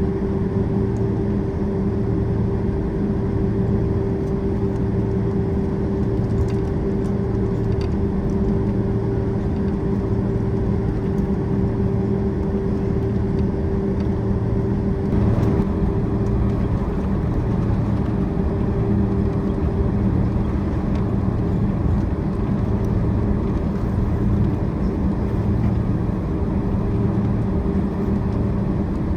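Boeing 767-400ER's jet engines running at low taxi thrust, heard from inside the cabin: a steady hum with a constant whining tone and a low pulsing drone. A brief rattle or knock about halfway through.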